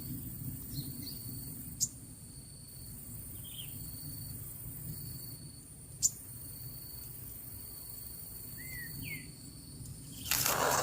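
Outdoor ambience: a steady high insect buzz that comes and goes, a few faint short bird chirps and two sharp clicks over a low rumble. Loud noise sets in near the end.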